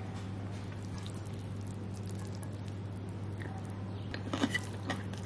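A steady low hum, then a few short crunchy biting and chewing sounds near the end.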